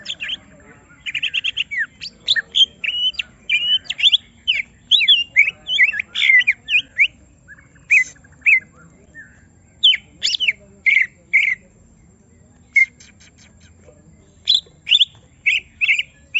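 Cucak ijo (green leafbird) singing in rapid bursts of sharp, sliding whistled notes and chirps, with a brief pause partway through and fast runs of repeated notes near the end. This is its agitated, fired-up song, provoked by a rival bird placed nearby.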